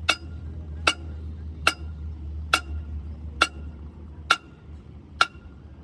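Hammer blows on steel, seven sharp ringing strikes at a steady pace a little under a second apart, over a low steady hum.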